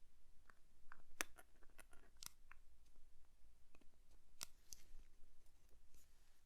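Faint, irregular small clicks and taps of watchmaker's tools handling parts of a watch movement during assembly, a few of them sharper than the rest.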